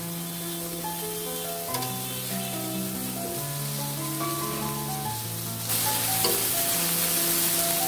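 Eggplant slices sizzling in hot oil in a kadai while a spatula turns them. The sizzle gets suddenly louder and brighter a little under six seconds in, as a slice is flipped onto its raw side. Background music with held notes plays along.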